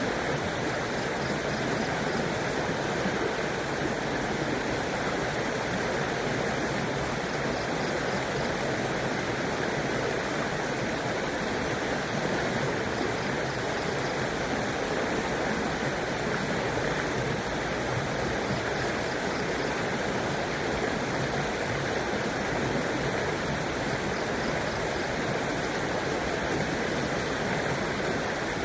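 River water flowing steadily over its bed, a constant even rushing with no breaks.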